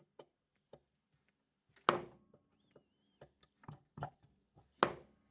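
Light clicks, with two sharper knocks about two seconds in and near the end, as of small parts and tools being handled.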